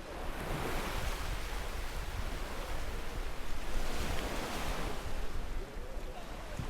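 Sea waves breaking and washing up the beach, swelling twice about three seconds apart, with a low rumble of wind on the microphone.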